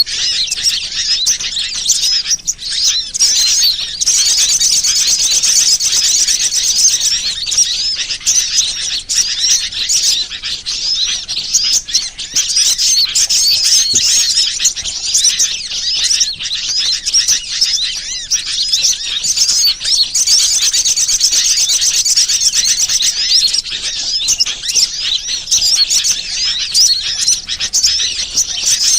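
Bird-lure recording of many small birds chirping and twittering at once: a dense, unbroken chorus of rapid, high-pitched chirps, the kind of call played to draw wild birds in for trapping.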